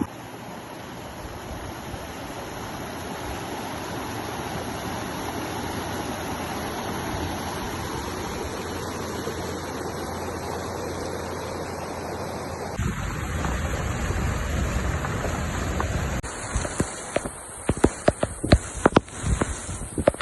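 Steady rushing noise of flowing water, like a running wadi or waterfall. About 13 seconds in it changes abruptly to a louder low rumble, with several sharp knocks and thumps near the end.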